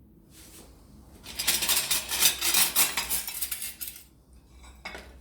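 Plates clattering and clinking against each other as they are handled, a dense run of clinks lasting about two and a half seconds, with a few lighter knocks before and after.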